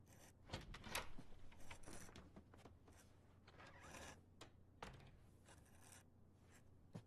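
Faint rustling and scraping with small clicks and taps, as of things being handled, over a low steady room hum.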